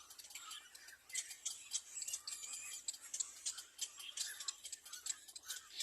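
Nestling birds in the nest giving rapid, irregular high-pitched chirps and clicks.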